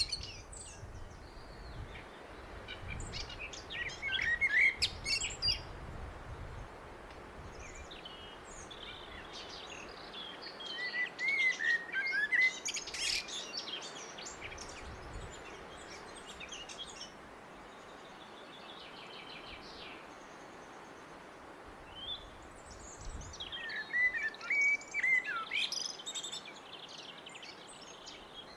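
A blackbird singing: three separate warbled song phrases, each a few seconds long and ending in higher twittering, with pauses between them. Fainter chirps fill the gaps.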